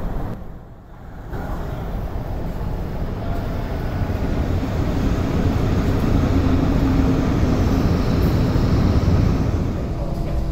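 CAF-built MTR train running past on the adjacent track, a steady rail rumble and rush that swells over several seconds after a brief lull about a second in.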